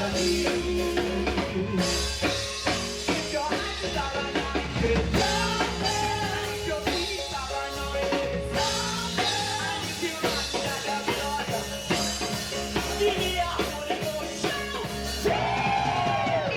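Live gospel praise music: a band with drum kit, bass and guitar playing under singing voices.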